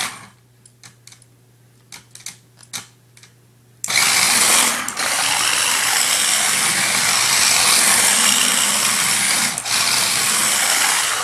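Toy RC drift car: a few light clicks, then about four seconds in its small electric motor runs at speed with the wheels spinning and sliding as it drifts, a steady loud whirring that dips briefly near the end.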